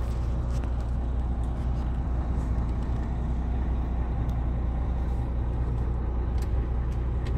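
Car-transporter truck driving, a steady low engine and road drone heard from inside the cab, with a few faint ticks.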